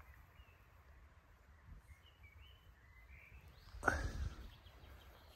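Quiet outdoor background with a few short bird chirps, then a sudden brief knock about four seconds in.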